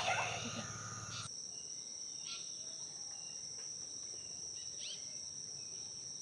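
Steady high-pitched insect chorus holding two unbroken high tones, with a few faint short bird chirps, one of them falling in pitch. For the first second or so other calls sound over a low hum, then they cut off abruptly.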